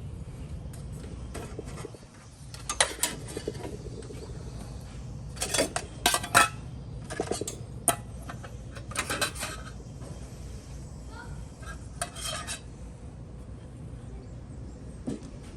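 Utensils clinking and knocking against cookware in several short bursts of sharp clicks, over a steady low background rumble.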